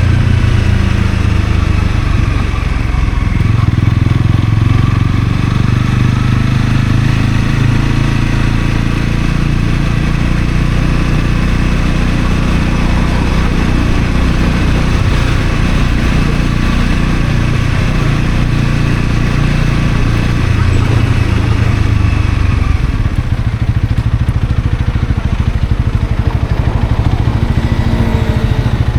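Honda CL250 motorcycle engine running on the move, with steady wind and road rush. About three-quarters of the way through, the rush eases and the engine's low, even pulsing comes forward, as when the bike slows.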